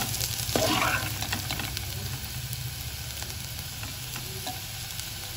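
Diced potatoes sizzling as they fry in oil in a pan, stirred by a slotted steel spatula that scrapes through them, with the scraping strokes loudest in the first second.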